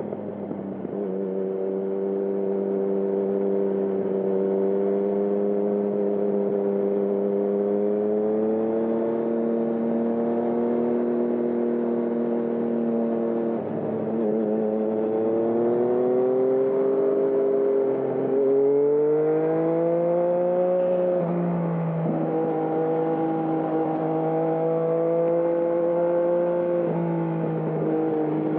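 Three-cylinder engine of a 2020 Yamaha MT-09 running through a Termignoni exhaust while riding. The revs hold steady, dip briefly about halfway, climb steadily for several seconds, then drop suddenly, as with an upshift, before holding steady again.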